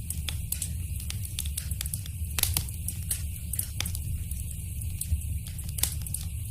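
Wood fire crackling in a fireplace: a steady low rumble of the flames with frequent sharp pops and snaps, a few louder ones in the middle and latter part.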